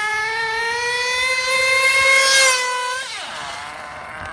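Dynamite .28 nitro engine in an RC truggy running at high revs under throttle, its high-pitched note climbing slowly, then falling away about three seconds in as it comes off the throttle or passes by.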